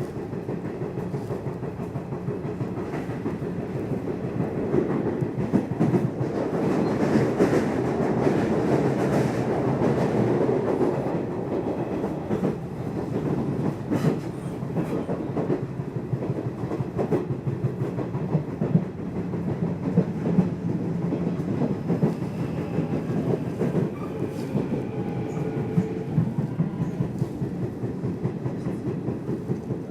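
Nishitetsu electric commuter train running along the line, heard from inside the carriage: a steady rumble of wheels on rail, swelling a few seconds in, with scattered clacks as the wheels pass over rail joints.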